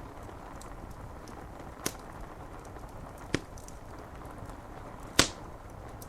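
Steady rain on window glass mixed with a crackling fire: faint light crackles throughout and three sharp pops about a second and a half to two seconds apart, the last the loudest.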